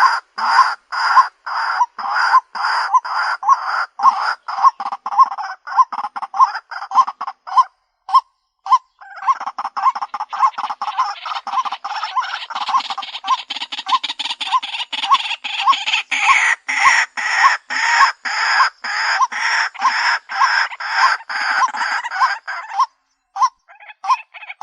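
White-breasted waterhen giving its repeated harsh ruak-ruak calls, two to three a second. The calls break off for a moment about eight seconds in and resume faster. This is the species' lure call.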